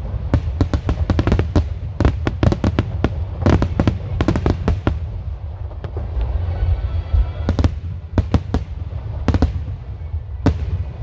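Wide starmine fireworks barrage: aerial shells bursting in rapid succession, sharp booms one after another over a deep continuous rumble. The bursts thin out briefly about six seconds in, then resume.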